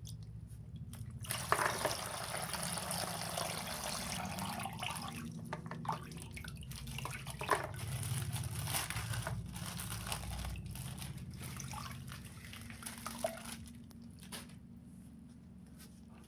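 Water spilling and dribbling out of a popped water-filled plastic bag, with scattered small crinkles and clicks of the plastic being handled. The flow fades away toward the end.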